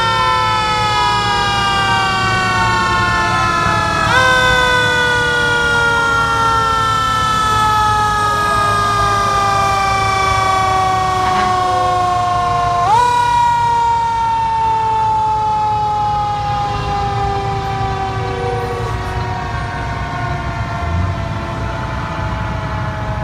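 Fire truck's mechanical siren winding down in a long, slowly falling wail. It is brought back up in pitch twice, about four seconds in and again about thirteen seconds in, over a low rumble.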